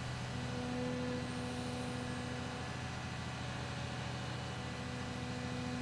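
Cat 320 excavator's diesel engine running steadily, with a higher humming tone that fades out partway through and returns near the end.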